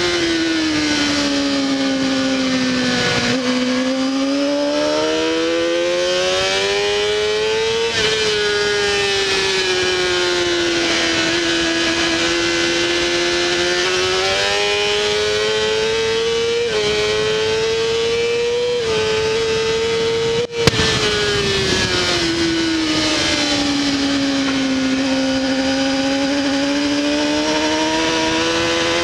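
Honda CBR600RR inline-four engine heard onboard at race pace, with rushing wind throughout. The engine note falls as the bike slows into corners and climbs again under acceleration, with abrupt steps at the gear changes. About two-thirds of the way through comes a brief dropout and a sharp click.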